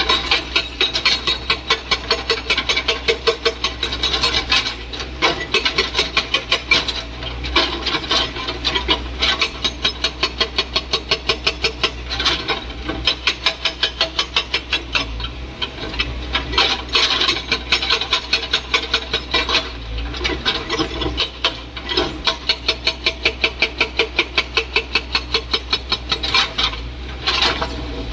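Hydraulic breaker on a JCB excavator hammering, a rapid run of blows several a second that comes in bursts with short pauses, over the machine's steady low engine drone.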